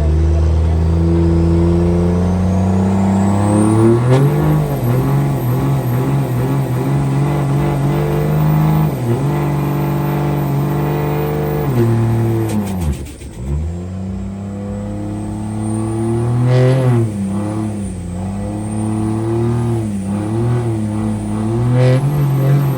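Pickup truck engine held at high revs in a burnout, its pitch climbing about four seconds in, dropping sharply as the throttle is lifted a little past halfway, then revving up and wavering again.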